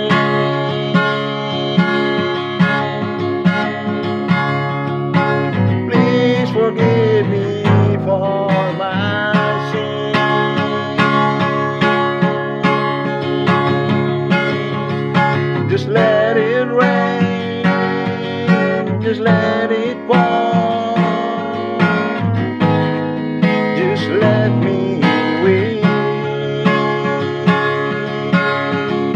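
Instrumental break of a song: acoustic guitar playing over a steady backing, with a melodic lead line that slides in pitch in places.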